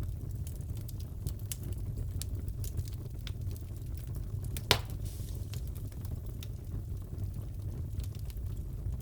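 Wood fire crackling in a fireplace over a steady low rumble: scattered small snaps throughout, with one louder pop about halfway through.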